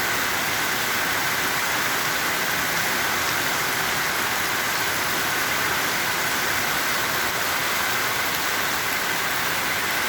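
Heavy rain falling in a downpour, a steady, unbroken hiss.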